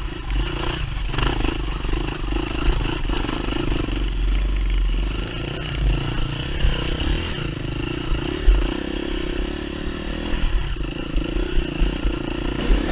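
Off-road dirt bike engine running steadily, with clattering and scraping from the trail.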